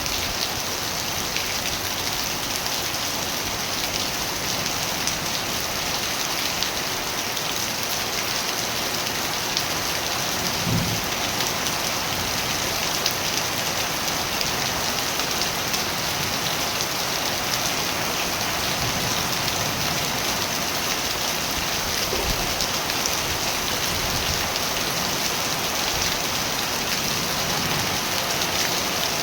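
Steady rain falling, an even dense patter and hiss that does not let up.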